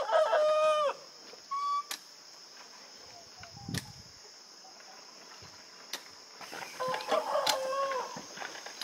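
A rooster crowing twice, at the start and again about seven seconds in, over a steady high insect buzz. A single dull knock sounds about four seconds in.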